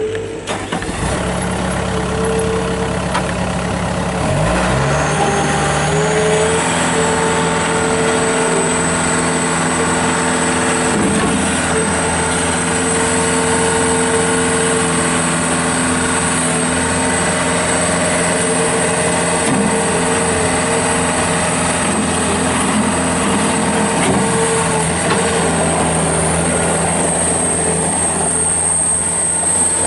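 Bobcat S185 skid steer loader's Kubota four-cylinder diesel engine running. About four to five seconds in it is throttled up, then it holds a steady higher speed, with a steady high whine above it.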